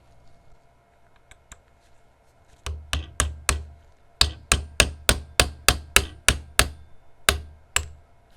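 A hammer striking about fifteen times, roughly three a second, starting a little over two and a half seconds in, with two short pauses. Each blow is a sharp knock with a dull thud beneath it, as on a workbench.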